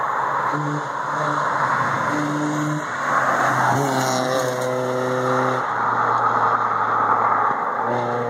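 Subaru Impreza 2.5RS's flat-four engine driving past at speed. Its steady engine note over a rushing noise grows loudest from about three seconds in, as the car goes by.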